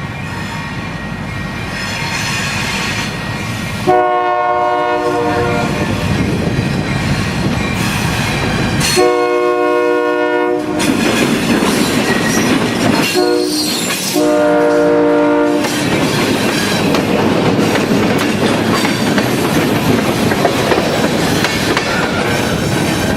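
Essex Terminal Railway locomotive horn sounding four blasts, long, long, short, long, the signal for a grade crossing, over the rumble and clickety-clack of the train rolling past.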